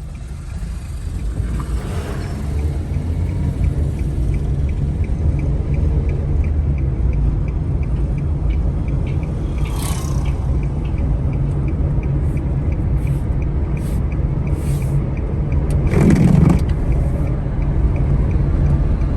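A moving car's engine and tyre noise heard from inside the cabin: a steady low rumble, with a faint, even ticking for several seconds in the middle and a brief louder sound about 16 seconds in.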